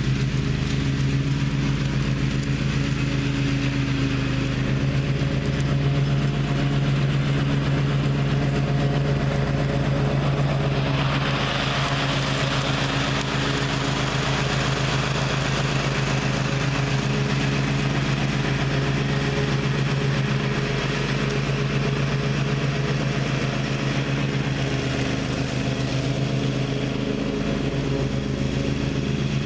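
Gravely ZTX 42 zero-turn mower's engine running steadily while mowing. About eleven seconds in, a rushing noise joins it.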